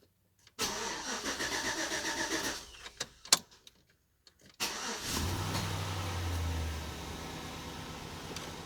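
Chevy Silverado pickup engine cranked by the starter for about two seconds without catching. After a few clicks it is cranked again, fires about five seconds in, runs up briefly and settles to idle.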